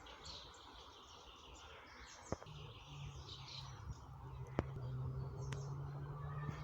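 Small birds chirping repeatedly, with a few sharp clicks. From about two seconds in, a steady low hum with overtones joins and slowly grows louder.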